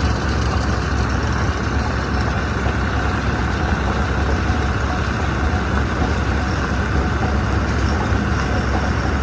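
Stone crusher machinery running steadily: a constant, heavy mechanical drone with no breaks or distinct impacts.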